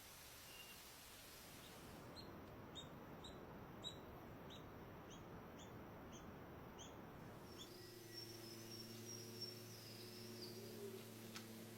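Faint bird chirps: a run of short, quick falling notes about two a second, then a thin high whistle near the end.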